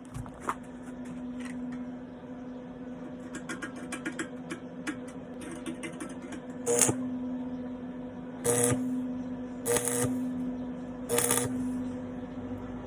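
Arc welder humming steadily, with scattered crackling as the arc is scratched into life, then four short bursts of arc crackle in the second half, as in quick tack welds.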